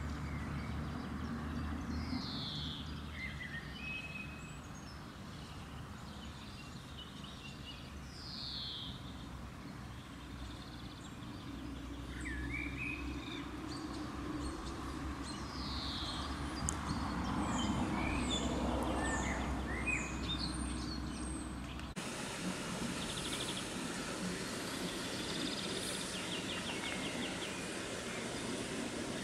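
Songbirds calling and singing: scattered short falling chirps, and fast trills near the end, over a steady low rumble that drops away abruptly about two-thirds of the way through.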